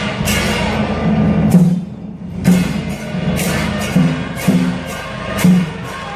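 Traditional temple-procession percussion: a drum beating with ringing cymbal or gong strikes, about two a second in an uneven rhythm.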